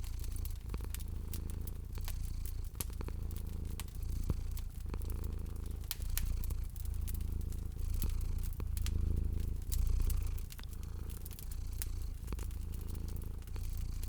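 Domestic cat purring close up, a low rumble that swells and fades about once a second with its breathing. Over it, a wood fire crackles with irregular sharp pops.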